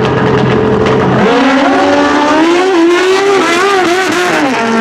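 Drag-racing motorcycles held at revs on the line, then launching about a second in and accelerating hard down the strip. The engine pitch climbs, then dips and rises several times as the bikes shift gears.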